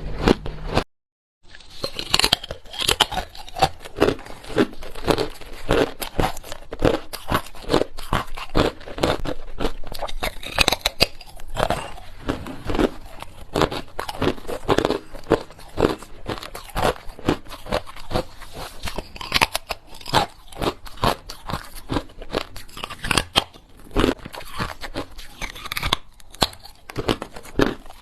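Close-miked crunching and chewing of small hard ice cubes: a dense, continuous run of crackling crunches, broken by a brief full silence about a second in.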